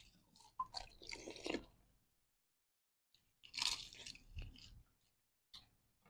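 Crunching and chewing of crisp panipuri (golgappa) shells being eaten fast, in two short bouts with a quiet gap between, then a single click near the end.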